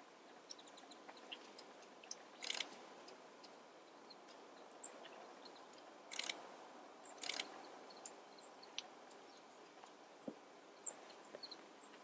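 Small wild birds calling faintly with scattered short, high chirps, and three brief raspy bursts between them.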